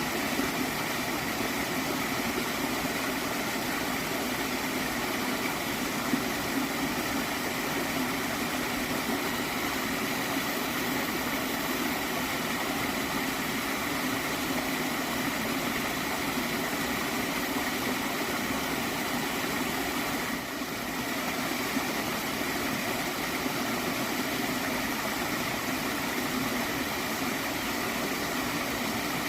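Steady gurgling water of a gently flowing stream, an even rush with a brief dip in level about two-thirds of the way through.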